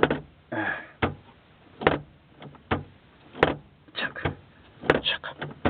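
The dashboard ventilation control levers of a 1993 Kia Pride being slid back and forth, giving a run of irregular plastic clicks and clacks, about a dozen, bunched closer together near the end.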